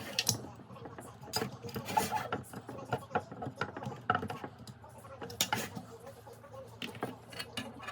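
Irregular light clicks, taps and rubbing, like small hard parts being handled.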